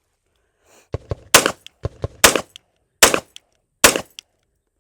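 SIG P229 Pro Cut 9mm pistol firing four shots in quick succession, a little under a second apart, starting just over a second in. Fainter sharp bangs sound between them.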